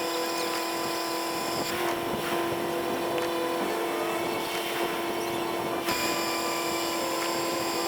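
Diesel tow truck running steadily, with a constant whine over the engine.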